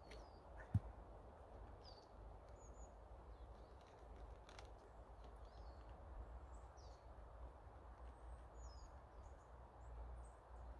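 Faint, scattered bird chirps over a low background rumble, with one short knock just under a second in.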